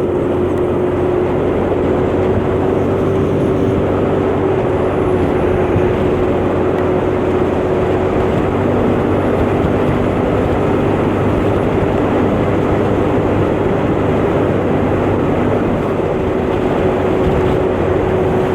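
125cc motor scooter engine running with a steady hum at a constant speed, under heavy wind and road rush on the microphone.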